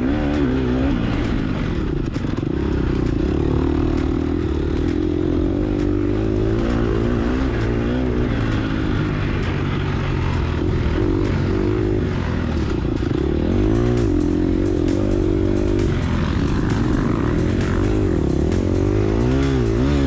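Gas Gas EX250F 250cc four-stroke single-cylinder dirt bike engine under load, its pitch rising and falling repeatedly as the throttle is worked on and off, with scattered light ticks.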